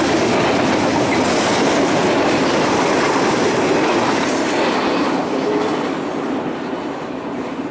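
A train rolling past, with the steady noise of its wheels on the rails, easing off over the last couple of seconds.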